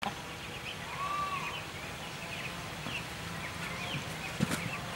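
Small birds chirping, many short high calls over a steady background hiss, with a brief knock near the end.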